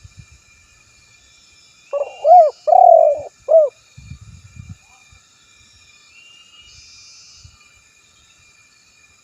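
Spotted dove (tekukur) cooing: one loud phrase of four low notes about two seconds in, the third note the longest. A few low knocks follow right after.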